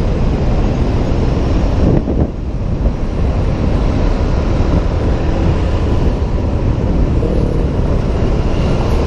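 Wind buffeting a helmet-mounted camera microphone while riding a Honda PCX 125 scooter, with the scooter's engine and road noise underneath. The level dips briefly a little over two seconds in.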